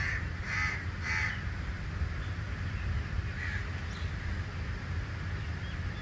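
A bird gives three harsh, caw-like calls in quick succession, then a fainter one a few seconds later, over a steady low rumble.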